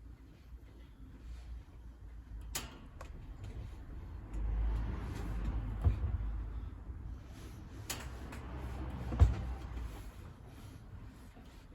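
Wood fire crackling inside a wood-burning stove, with small ticks throughout and three sharp pops, under a low rumble that swells in the middle.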